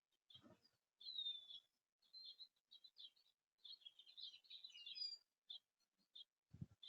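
Small songbirds chirping faintly: short repeated chirps, a clear call about a second in, and a burst of rapid twittering in the middle. Two soft low thumps, one near the start and one near the end.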